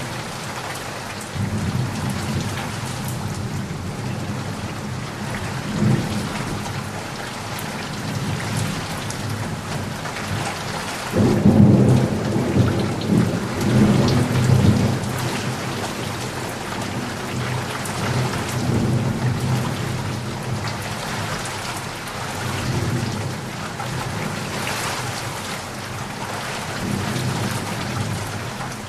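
Steady rain falling, with rolling thunder rumbling underneath; the thunder swells loudest for a few seconds in the middle, then keeps rolling more softly.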